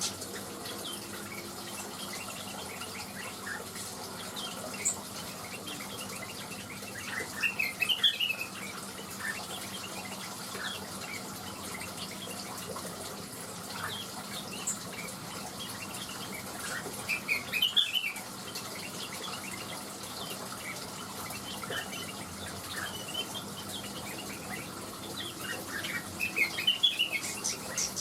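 Greater green leafbird (cucak wilis) singing in short bursts of quick, chirpy phrases, with three louder bursts about nine seconds apart and scattered single chirps between them, over a steady background hiss.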